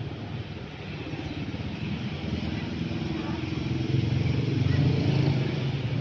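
A motor vehicle's engine running, growing steadily louder as it comes closer and loudest about four to five seconds in.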